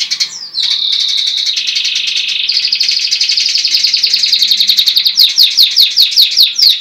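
Songbird singing loudly in rapid rolling trills, each held about a second before it shifts pitch, then a run of quick downward-sweeping notes, about three a second, in the last couple of seconds.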